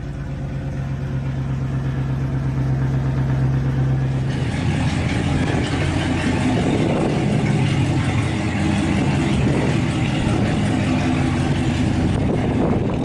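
Chevrolet Camaro ZL1's supercharged V8 idling steadily just after a cold start. About four seconds in, the sound turns rougher and louder, with more hiss over the engine note.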